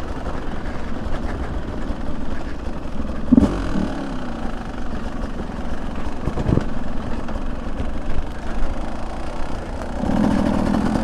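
Beta 200 two-stroke dirt bike engine running under the rider, with two short sharp knocks a few seconds apart and a steadier engine note near the end.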